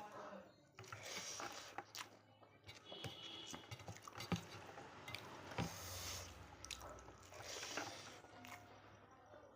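Close-miked eating sounds of a person chewing mutton and rice: wet mouth noises with scattered short clicks and smacks.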